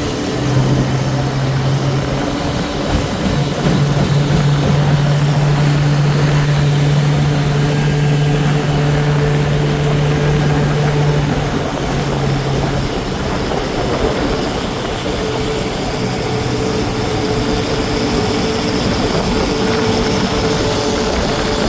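Outboard motor running steadily on a small boat over a rush of wind and water, its drone stepping in pitch a few times.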